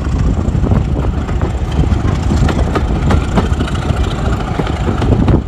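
Train running: a steady low rumble with irregular rattles and knocks.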